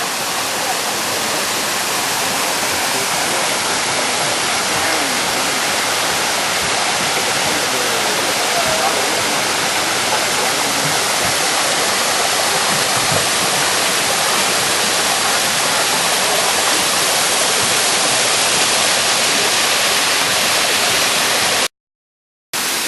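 Waterfall: a loud, steady rush of falling water. It cuts out for a moment near the end.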